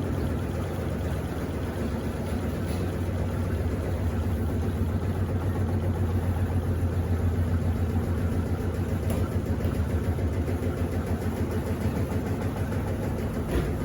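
Electrolux Turbo Economia 15 kg LTD15 washing machine running its spin cycle: a steady low hum with a fast, even pulsing that grows stronger about five seconds in.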